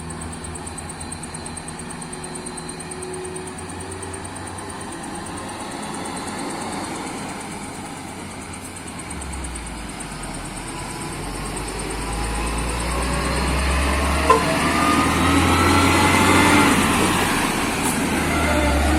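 A motor vehicle's engine running steadily, then growing louder and rising in pitch through the second half, with one short click partway through.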